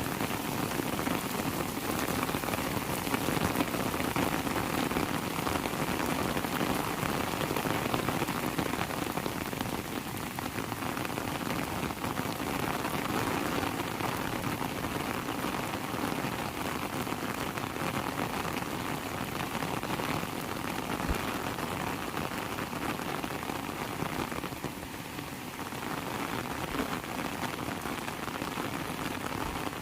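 Heavy rain falling steadily: a dense, even hiss of drops, briefly a little quieter near the end.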